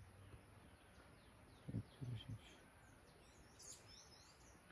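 Faint outdoor ambience with scattered small bird chirps and tweets, and three short low calls in quick succession about two seconds in.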